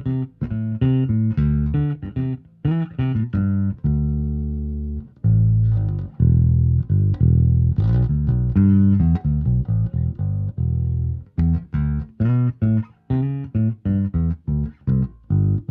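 Cataldo NR41 non-reverse Thunderbird-style electric bass with a single Thunderbucker Ranch pickup and Rotosound RS66 nickel strings, played as a line of plucked notes. A few notes ring longer about four and five seconds in, and shorter, quicker notes follow near the end.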